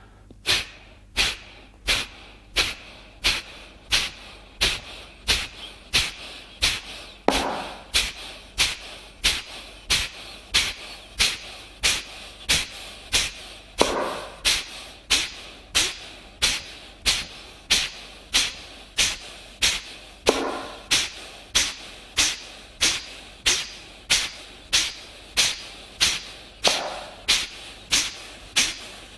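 Kapalabhati breathing: a rapid series of forceful, sharp exhalations through the nose, about one and a half a second, in an even rhythm.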